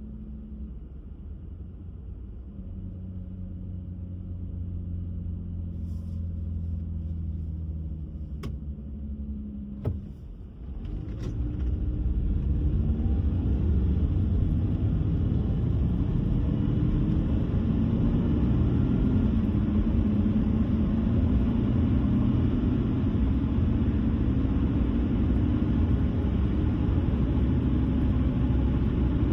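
Car on the road: for about ten seconds a quieter, steady engine hum, then, after a couple of sharp clicks, the sound swells into louder, steady engine and tyre rumble as the car gathers speed and cruises.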